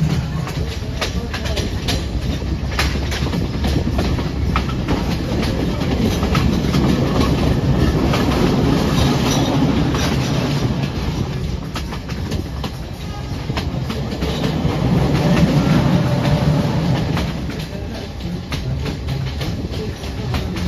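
Passenger train running along jointed track, heard from the side of a moving carriage: a steady rumble of wheels on rail with the clickety-clack of the rail joints. It swells louder twice along the way.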